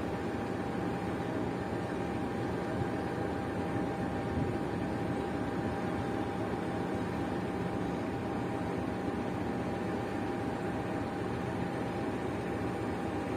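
Steady rumble inside an Indonesian economy-class train carriage, with a thin steady hum running through it.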